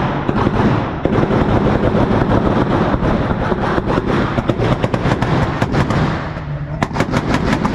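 A car's engine revved hard through a loud exhaust, with rapid crackling pops and bangs throughout and a quick run of sharper bangs near the end.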